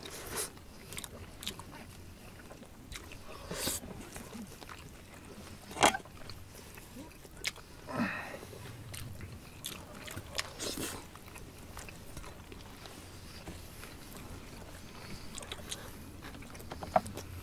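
Close eating sounds of boiled organ meats: wet chewing and biting with scattered small clicks. A sharp clack about six seconds in is a knife striking the metal platter while meat is cut.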